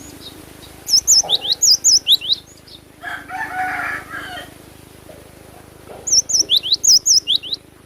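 Gelatik batu (cinereous tit) singing: two bursts of rapid, loud, repeated sharp whistled notes, one about a second in and one near the end. A lower, harsher rasping sound comes between them.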